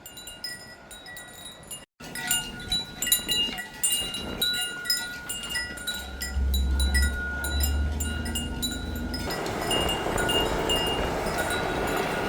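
Small metal bells or chimes tinkling on and off at a few fixed pitches. A low rumble comes in about six seconds in, and from about nine seconds a steady rushing noise grows underneath.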